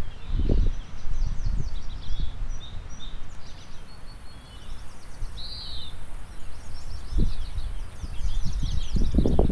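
Several songbirds singing and calling in short high phrases, over wind buffeting the microphone in low gusts that are strongest about half a second in and near the end.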